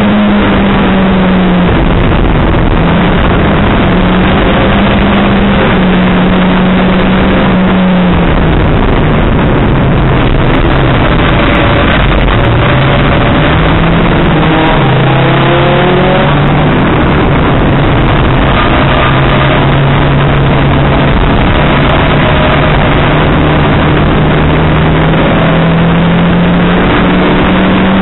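Race car engine heard from inside the cabin under racing load. The revs dip about a third of the way in, run lowest around the middle, then build steadily back up toward the end.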